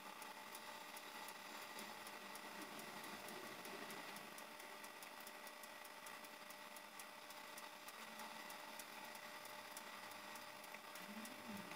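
Pellet stove starting up: a faint steady mechanical hum with rapid light ticking.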